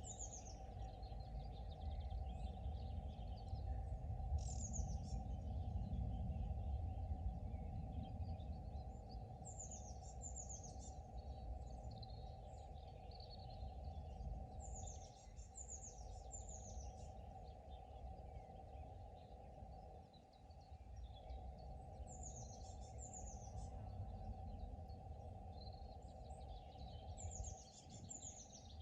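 A songbird repeats a short, high phrase of a few falling notes every five or six seconds, with fainter bird chirps in between, over a steady low rumble.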